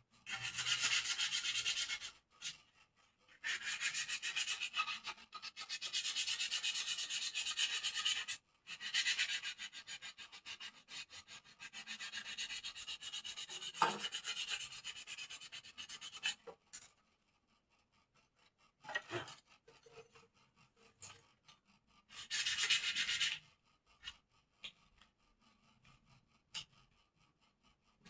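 Hand smoothing of a bird-cage part: rapid rasping rubbing strokes in long runs of several seconds, broken by brief pauses, then two short bursts later on.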